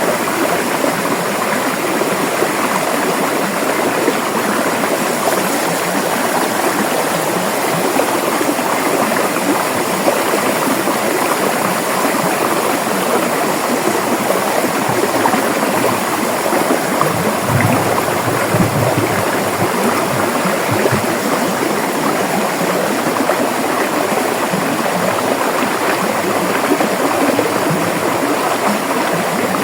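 River water flowing over rocks: a steady, dense rushing with no pauses, and a brief deeper rumble about two-thirds of the way through.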